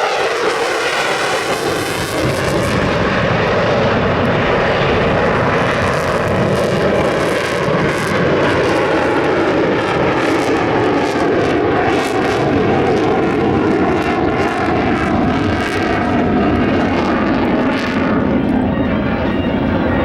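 Military aircraft of an F-35A and Heritage Flight display flying over, a loud, steady engine noise that holds for the whole stretch.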